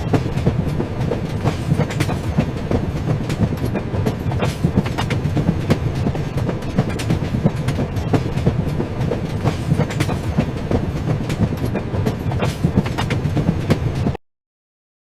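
Moving train: steady low rumble with rapid clacking of wheels over rail joints. The sound cuts off abruptly near the end.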